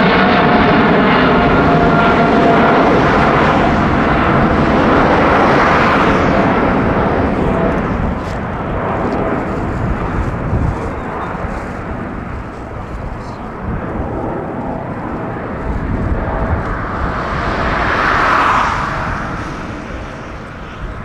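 Twin GE90-115B turbofans of a Boeing 777-300ER airliner at takeoff power. The jet noise is loudest at first, with a few steady engine tones in it, and fades gradually as the aircraft moves away. There is a brief swell of noise about eighteen seconds in.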